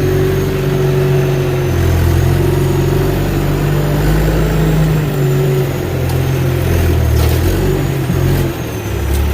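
Heavy logging machine's engine running steadily with no speech over it, its low drone rising and falling a few times as the load changes, with a faint high whine on top.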